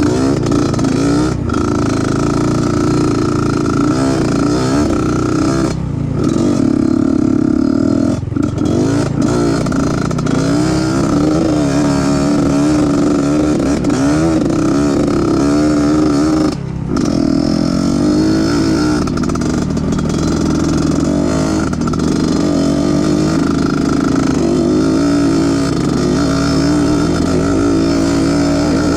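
Trail motorcycle engine running under load, its pitch rising and falling as the throttle is worked. The throttle is shut briefly about six, eight and seventeen seconds in.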